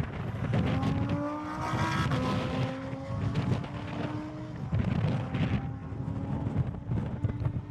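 Sports car engine accelerating hard on a track, its revs climbing and then holding or easing off with gear changes, twice.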